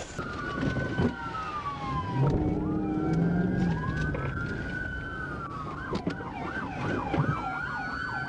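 Police car sirens, more than one, sounding together: a slow wail rising and falling, then a fast yelp starting about six seconds in.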